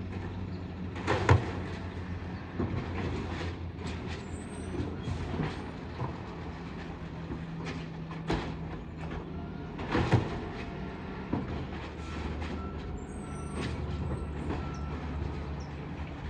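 Garbage truck engine running steadily, with sharp metallic clanks and bangs, the loudest about a second in and another about ten seconds in.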